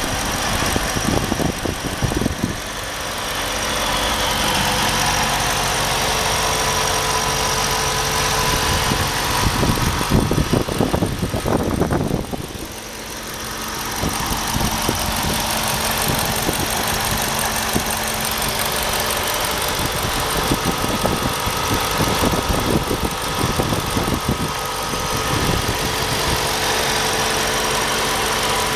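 2013 Ford Shelby GT500's supercharged 5.8-litre V8 idling steadily, with the throttle blipped briefly a few times, most strongly about ten seconds in.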